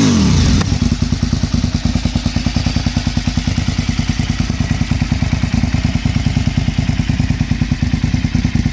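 KTM 950 SM's V-twin engine through a Bzl aftermarket exhaust, a throttle blip dying down in the first half-second, then idling with an even, rapid pulsing beat.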